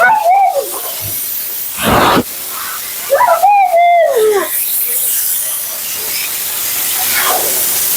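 Siberian husky vocalizing: two drawn-out woo-woo calls that rise and fall in pitch, one at the start and a longer one about three seconds in. A steady hiss runs underneath, broken about two seconds in by a short, loud rushing burst.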